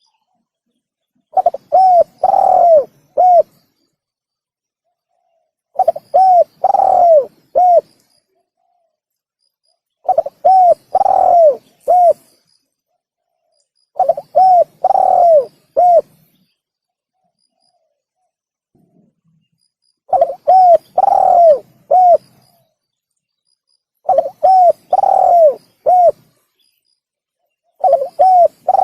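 Spotted dove (tekukur) cooing: a phrase of short notes around one longer falling coo, repeated seven times about every four seconds, with dead silence between phrases. It is a looped recording played as a bird-catching and hunting lure.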